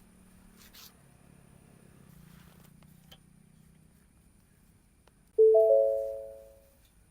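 A short chime: three clear notes struck in quick succession, ringing together and fading away over about a second.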